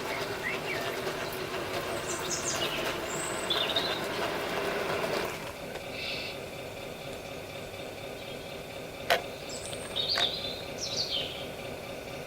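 Engine sound from the Servonaut sound module of a 1/14 Tamiya Scania radio-control truck, a steady hum that drops in level about five seconds in. Birds chirp now and then, and there is a single sharp click about nine seconds in.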